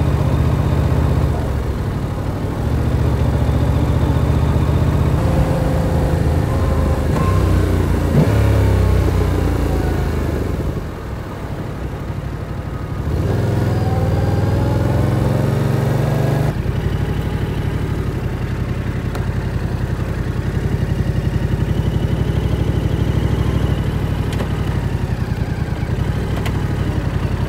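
Yamaha R7 parallel-twin motorcycle engine under way, the revs rising and falling. About eleven seconds in it drops to a quieter, lower note, then climbs again until a sudden change about sixteen seconds in, after which it runs steadily.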